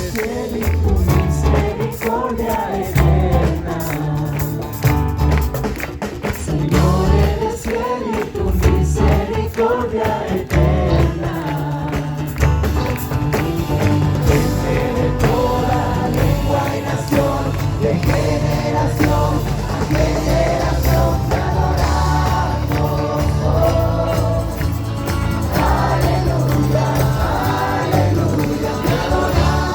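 A group of voices singing a Christian worship song in Spanish over music with a heavy, pulsing bass.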